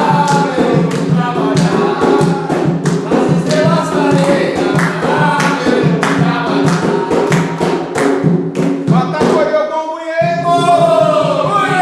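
Umbanda ponto (ritual chant) sung by a group of voices over a steady drumbeat. About ten seconds in, the drums drop out for a moment under a long held sung note.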